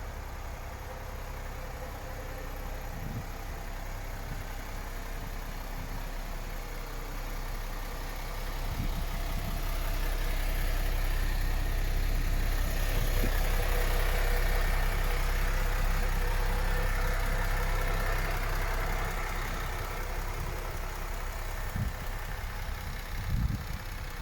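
MAN TGX 26.500 truck's 12.4-litre six-cylinder diesel engine idling steadily. It grows louder about nine seconds in and eases back about five seconds before the end, with a few low thumps near the end.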